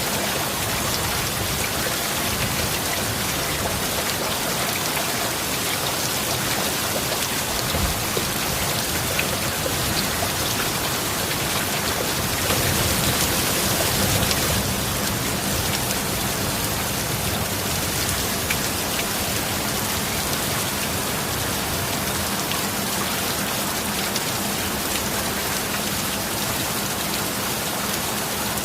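Steady heavy rain falling, an even hiss that swells briefly about halfway through.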